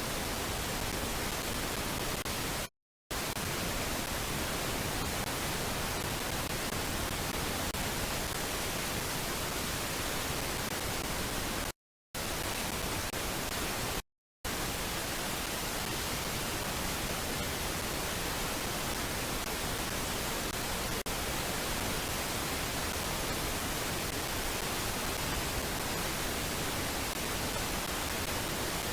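Steady, even static hiss with no other sound in it, cut three times by brief dropouts to dead silence, about three seconds in and twice around twelve to fourteen seconds in.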